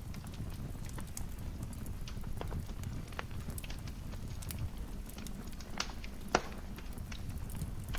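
Wood fire crackling in a fireplace: scattered sharp pops and snaps over a steady low rumble of the flames, with one louder pop about six seconds in.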